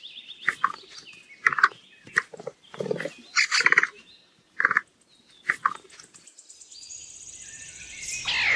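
Capybara calling in short squeaks, about a dozen separate calls over the first six seconds. A faint high steady tone comes in near the end.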